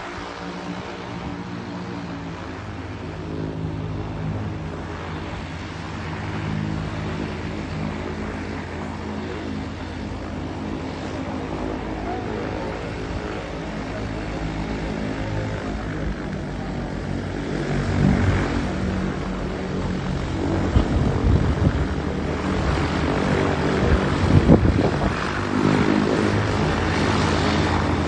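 Propeller aircraft engine droning steadily while landing in strong wind. Wind buffets the microphone in gusts that grow stronger through the second half.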